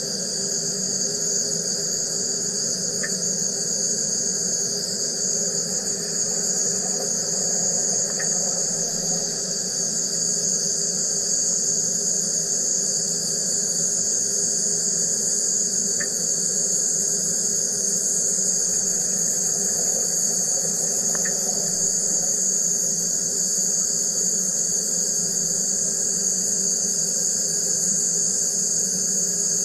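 Wire EDM machine running: a steady high-pitched buzz over a low hum, with a few faint ticks.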